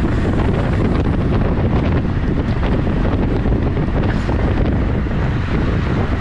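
Wind buffeting the camera's microphone while riding, a loud steady rumble with no break.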